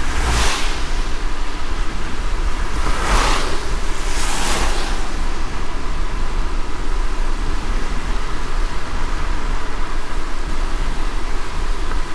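Car driving in light rain: a steady low road rumble under an even rain hiss, with three brief swishes in the first five seconds.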